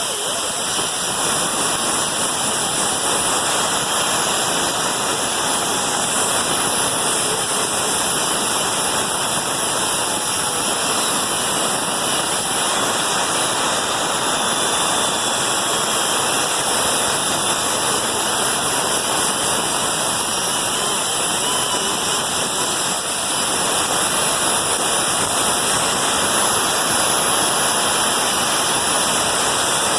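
Power grinder running steadily against rusty sheet metal, cleaning it down to bare shiny steel so a weld patch will adhere. It stops abruptly at the end.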